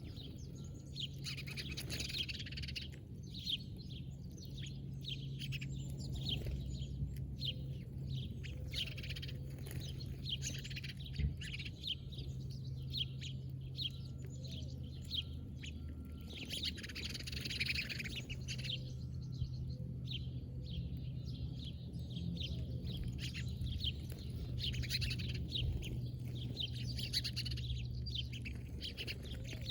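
Small songbirds chirping and twittering: many quick, high chirps, some overlapping in busier stretches, over a steady low hum.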